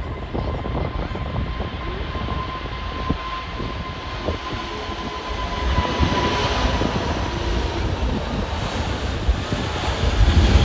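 Jet airliner engines running, with a steady high whine over a broad rumble that grows louder over the last few seconds.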